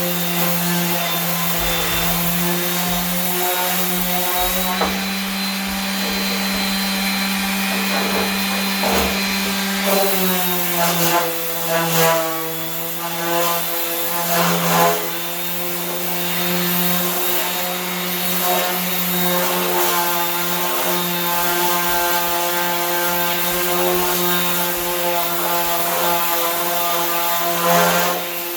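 Electric sander running with 80-grit paper against a truck's steel fender, a steady motor hum with a rubbing scratch. The motor pitch rises about five seconds in and settles back lower about ten seconds in, as the load on the pad changes.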